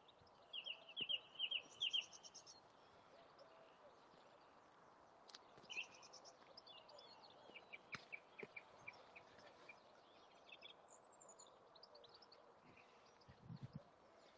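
Faint birdsong: small birds giving short chirps and quick trills in scattered bursts, with a couple of sharp clicks in the middle.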